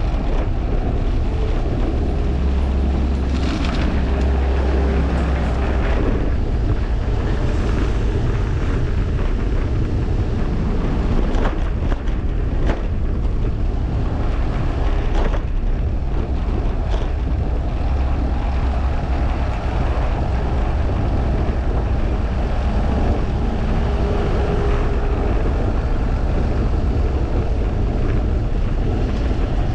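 Steady wind rush and low rumble on a GoPro's microphone while riding a fixed-gear bicycle, with a few sharp knocks or clicks around the middle.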